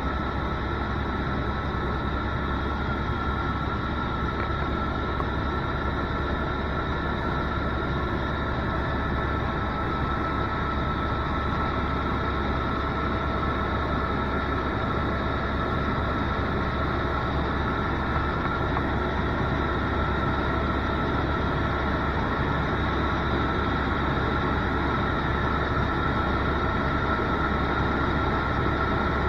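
Helicopter in flight: steady engine and rotor noise with a high whine, even and unchanging.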